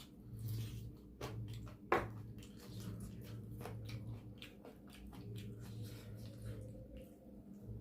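A person chewing and eating close to the microphone: a run of small wet mouth clicks, with one sharper, louder click about two seconds in, over a steady low room hum.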